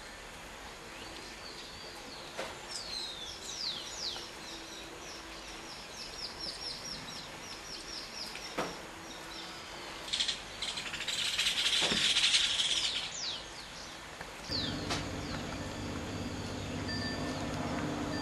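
Birds chirping in a quick series of short, high, falling notes. About two-thirds of the way through there is a loud hissing burst lasting a couple of seconds, and after it a low steady hum begins.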